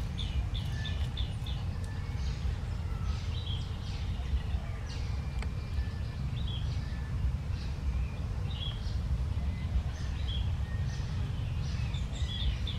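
Small birds chirping, short high calls repeating every half second to a second, over a steady low rumble.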